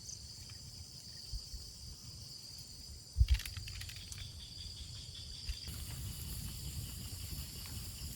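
Insects chirring in a steady high-pitched drone over a low rumble, with two sharp knocks a little over three seconds in.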